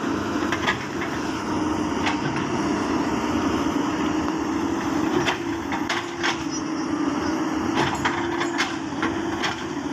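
Komatsu D85PX bulldozer's diesel engine running steadily under load as it pushes against a mango tree, with several sharp cracks of wood scattered through it as the roots give.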